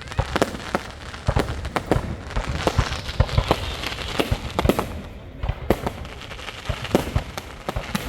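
Fireworks going off: many sharp bangs a few times a second at uneven spacing over continuous crackling, with a short lull a little past halfway.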